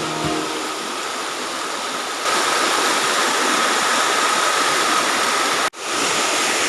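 Steady rush of falling water from a waterfall. It gets louder about two seconds in and breaks off for an instant near the end.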